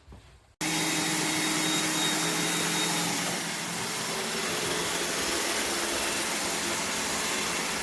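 Robot vacuum's suction motor running with a steady, even whirr and a faint hum. It cuts in abruptly about half a second in.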